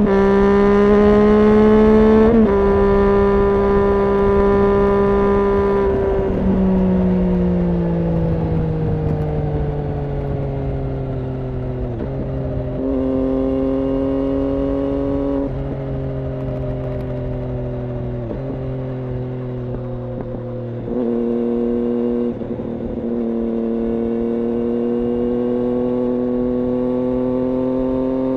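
2006 Triumph Daytona 675's 675 cc three-cylinder engine running through an IXIL aftermarket exhaust while being ridden. The engine note jumps up and down in steps as gears change. It falls away through the middle as the bike slows, then pulls steadily again near the end.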